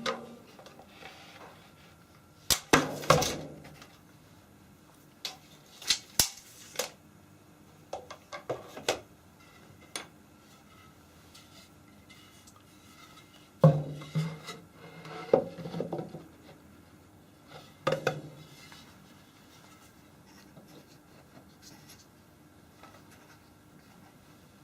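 Irregular knocks and clatters of hard objects being handled, in several short clusters with quiet stretches between.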